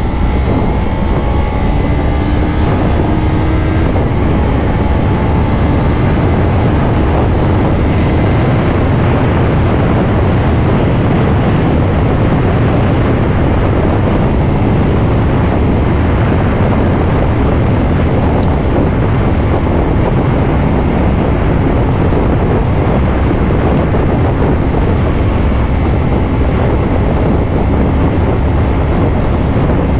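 Steady heavy wind rush on the microphone of a motorcycle at highway speed, with engine and road noise underneath. A few faint engine tones shift in pitch during the first few seconds.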